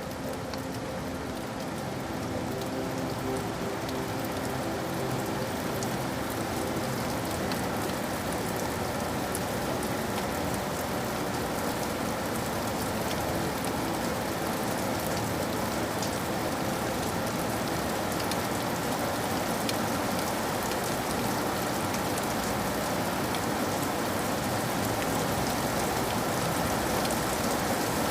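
Steady rain falling: a dense, even hiss with scattered sharp drop ticks, growing gradually louder.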